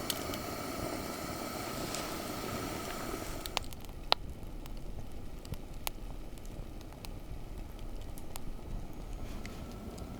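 Wood fire crackling, with scattered sharp pops about three and a half to six seconds in, over a steady hiss that drops away after the first few seconds.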